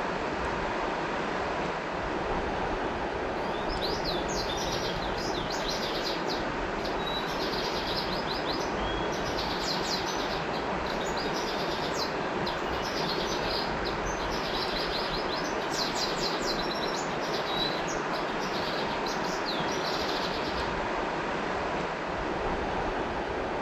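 River water flowing steadily, with a bird singing rapid high chirping phrases from about three seconds in until a few seconds before the end.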